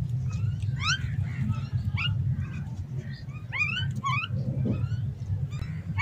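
Birds calling: four or so short calls, each sweeping quickly upward in pitch, over a steady low hum.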